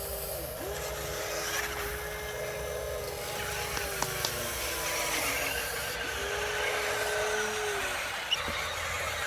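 Small electric motors of radio-controlled construction machines whining, running in several separate spells of a few seconds that each start and stop with a brief dip in pitch, over a steady hiss.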